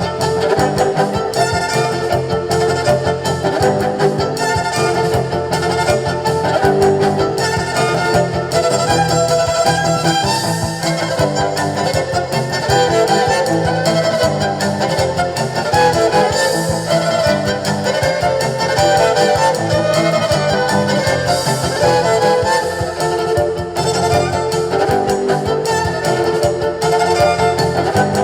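Live band music with a violin carrying the melody over a steady bass line.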